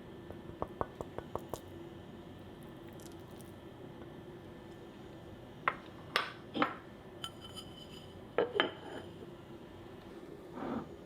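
Kitchenware being handled: a quick run of light clicks near the start, then several clinks and knocks of dishes, one ringing briefly, over a steady low hum.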